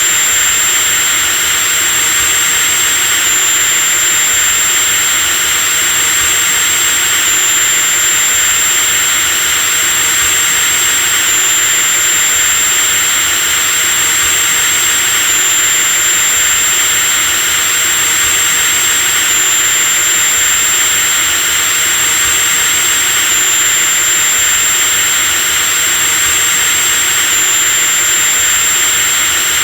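Electric drill running steadily at full speed: a high-pitched whine over a steady hiss, with a slight hitch in the whine about every four seconds.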